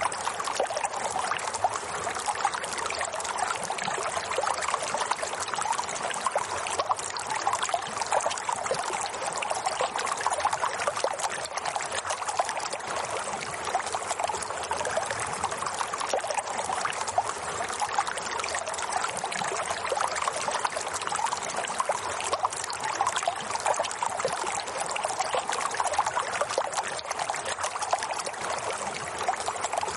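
Flowing water trickling and splashing steadily, like a small stream, with no change in level.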